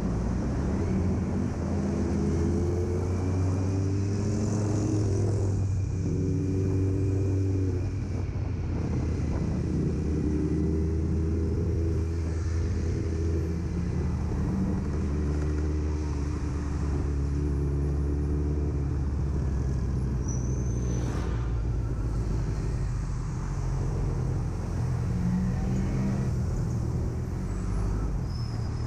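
Kawasaki Z900's inline-four engine running while riding in traffic, its pitch rising in several pulls and dropping back with the throttle, over wind and road noise.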